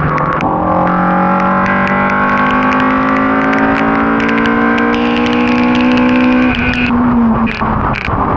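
Ford Cortina race car's engine pulling hard under full throttle, its pitch climbing steadily for about six seconds before dropping as the driver lifts or shifts, with a scatter of sharp crackles.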